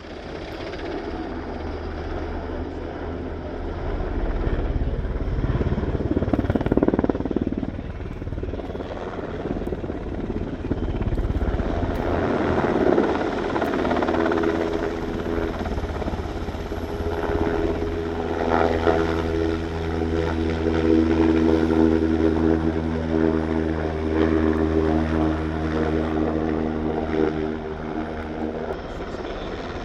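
Aircraft running nearby, with a steady low hum that grows louder over the first few seconds; from about halfway a set of steady droning tones joins it.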